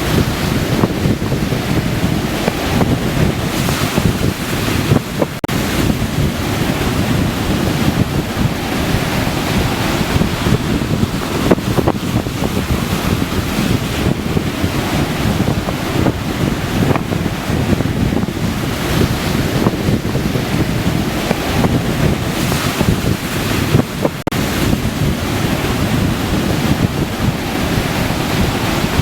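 Surf washing onto a beach, with wind buffeting the microphone throughout.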